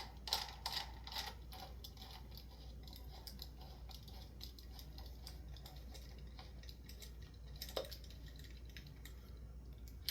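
A few light clicks and knocks of handling in the first second and a half, then a faint steady low hum with one more click about eight seconds in.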